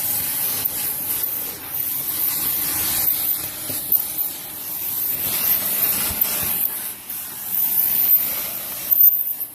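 Dyson Cinetic Big Ball Animal + Allergy vacuum running, its suction rushing through the hose and hand tool as the tool is worked over carpeted stair edges, picking up dust and hair. The rushing airflow swells and dips every second or two as the tool moves.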